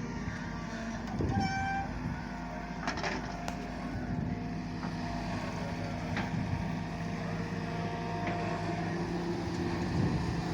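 Excavator diesel engine running steadily, with a few sharp metallic clanks and a brief high tone about a second and a half in.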